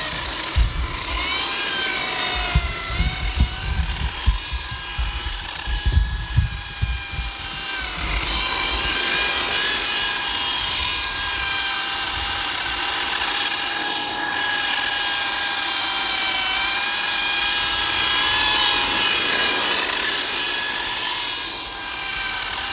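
Electric RC motor whine that holds a steady pitch and slowly slides up and down with the throttle. In the first several seconds, gusts of low rumble, like wind on the microphone, sit underneath.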